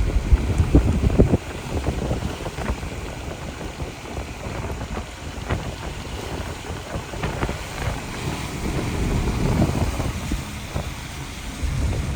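Wind buffeting the microphone in gusts: a low, uneven rumble that rises and falls, heaviest about the first second and a half.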